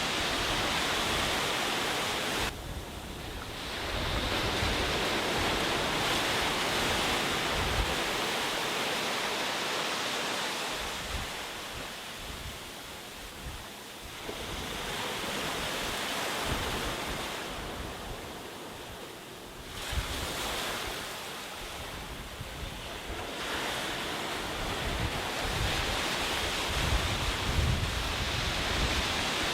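Sea waves breaking on a beach, the surf swelling and falling away in several long surges, with wind buffeting the microphone in low gusts.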